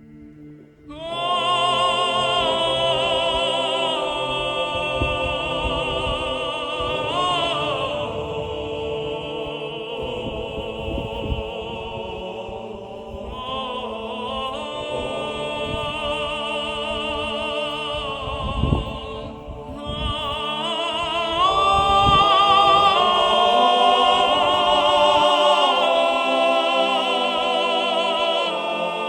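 Background music: a solo voice sings long, wavering notes in an operatic style, coming in about a second in.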